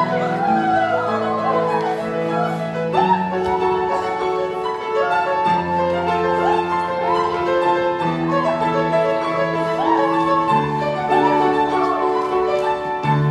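Instrumental ensemble playing a slow piece: a melody with vibrato and sliding notes over held lower notes that change every two to three seconds.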